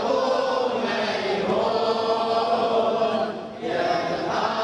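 A group of voices chanting a line of a Shia mourning elegy (latmiyya), with a short break about three seconds in.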